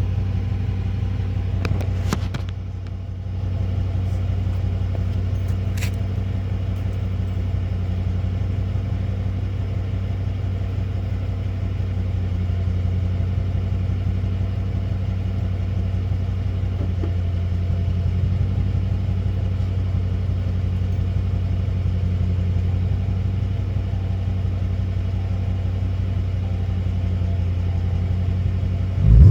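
2016 Dodge Charger R/T's 5.7-litre Hemi V8 idling steadily through Borla Pro XS mufflers with an X-pipe and the resonators removed. Right at the end it starts to rev, rising sharply in pitch and loudness.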